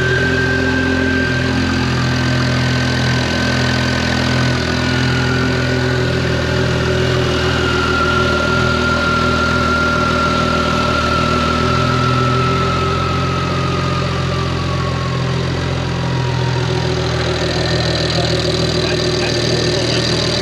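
A BMW 135i's turbocharged inline-six, converted to a single large turbo, idling steadily on its first start after the build. A high whistle runs over it and slowly falls in pitch before fading out near the end.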